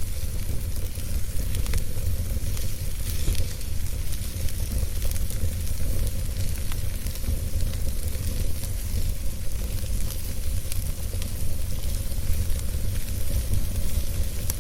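Wood fire burning steadily, with frequent small crackles and pops over a low rumble.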